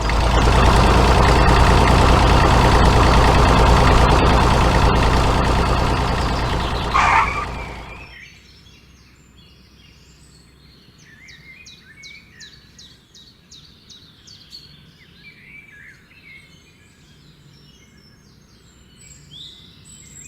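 A truck engine runs loudly and steadily with a deep hum, then cuts off about eight seconds in. Birds chirp and tweet quietly for the rest.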